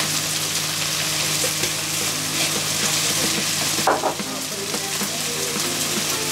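Sliced onion, carrot and spring onion frying in hot oil in an enamel wok: a steady sizzling hiss, with a short knock about four seconds in.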